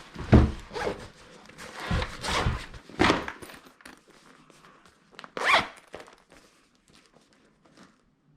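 A handful of short scraping swishes and thumps, like things being handled or zipped, the last and sharpest about five and a half seconds in, then it goes quiet.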